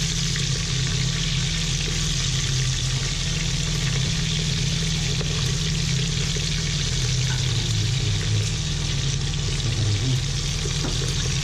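Chicken pieces sizzling steadily as they fry in hot oil, over a steady low hum.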